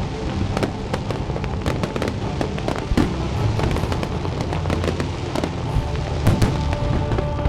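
Fireworks going off in rapid succession, many sharp bangs and crackles one after another, over music playing throughout.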